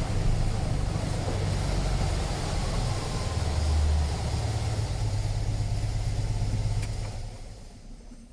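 Car engine running with a steady low rumble, fading away over the last second or so.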